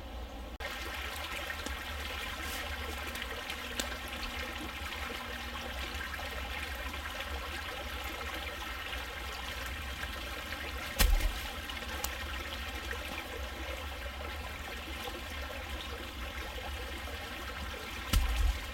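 Shallow forest creek trickling steadily over stones, with two dull thumps, one about eleven seconds in and one near the end.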